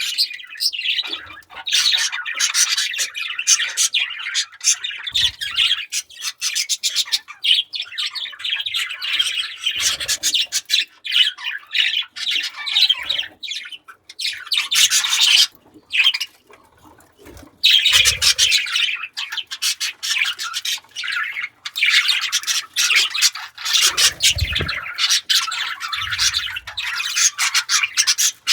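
Budgerigars chattering and squawking in quick, busy runs, with a lull of a couple of seconds a little past halfway.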